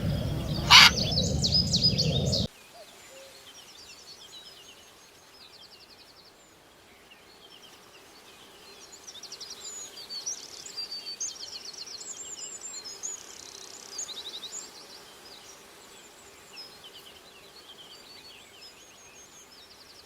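A loud fowl call, with one sharp cry a little under a second in, cuts off abruptly about two and a half seconds in. Small songbirds follow, chirping and trilling faintly in quick high runs.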